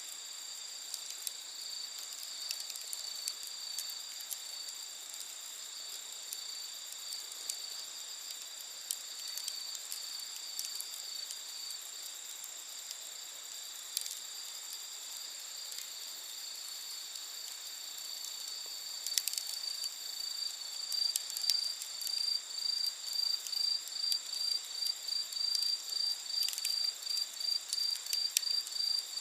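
Night insects, crickets among them, trilling steadily at several high pitches; about two-thirds of the way in, a louder chirping joins them at two to three chirps a second. Faint pops from the campfire are heard now and then.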